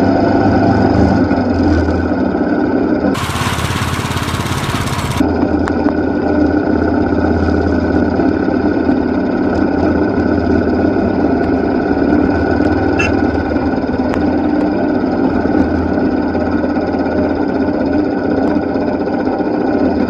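Royal Enfield motorcycle's single-cylinder engine running steadily under way. About three seconds in, a two-second rush of noise briefly covers it.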